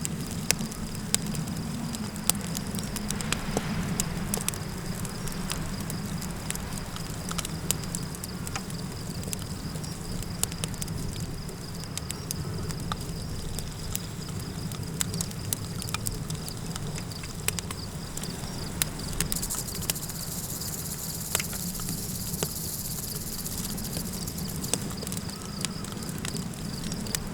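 Campfire crackling, with frequent sharp pops over a low steady rumble of wind. A steady high insect drone, like crickets, runs underneath.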